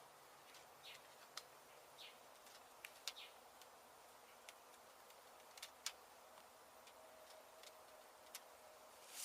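Near silence: faint background hiss with scattered, irregular soft clicks and brief high chirps.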